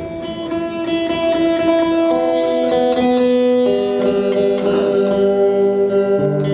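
A stringed instrument being tuned: long held notes that step to new pitches every few seconds as the strings are adjusted.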